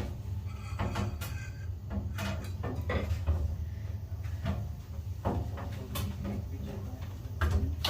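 Scattered knocks and clicks over a steady low rumble.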